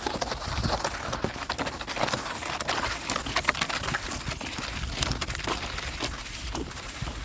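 Footsteps on snow: a quick, irregular run of short steps.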